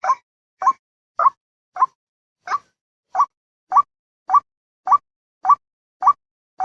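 White-breasted waterhen lure call: a short, sharp call repeated about twice a second in a steady chain, with one brief skip about two seconds in. This is a recorded call played to draw waterhens in for trapping.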